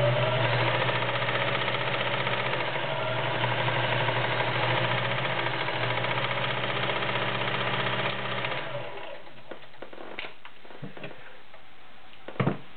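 Kenmore Model 1946 all-metal sewing machine running steadily at full speed, a smooth, even hum. It stops about nine seconds in, followed by a few light clicks and a sharp knock near the end.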